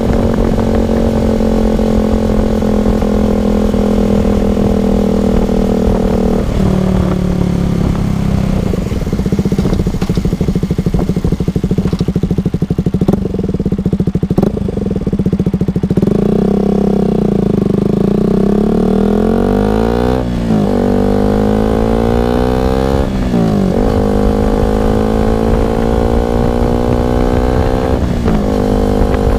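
Single-cylinder KTM RC motorcycle engine running through an R9 aftermarket exhaust. It holds a steady pitch for several seconds, then the engine speed changes, rising and falling several times with quick sharp swings past the middle, before settling steady again near the end.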